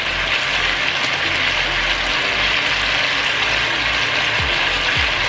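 Stir-fried beef strips, onion and bell peppers sizzling in sauce in a wok, a steady hiss. From a bit past the middle, a run of ratcheting clicks starts, about two a second.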